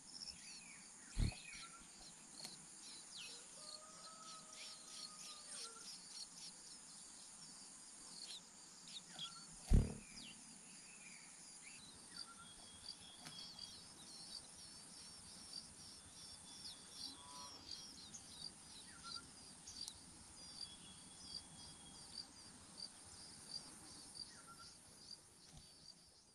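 Natural outdoor ambience: a steady high insect buzz with quick repeated chirps, a few short bird calls, and two dull thumps, the louder one about ten seconds in.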